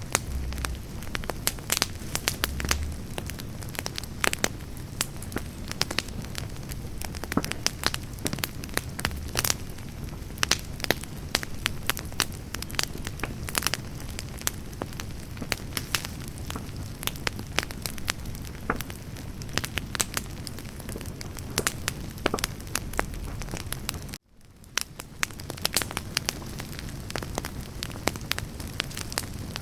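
Wood campfire burning, with a steady low rumble and frequent irregular crackles and sharp pops of the burning firewood. About three-quarters of the way through, the sound cuts out briefly and fades back in.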